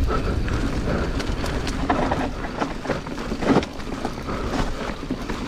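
Mountain bike descending a rough dirt trail at speed: steady wind rush over the action camera's microphone, tyre noise on dirt, and frequent sharp clatters from the bike over bumps and rocks.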